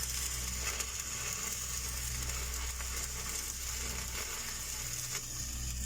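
Stick (SMAW) welding arc crackling and sizzling steadily as a downhill weld is run on steel pipe, with a steady low hum underneath.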